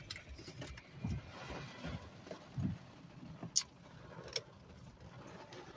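Quiet inside a parked car just after the engine is switched off, with a few soft thumps and sharp clicks of handling in the cabin.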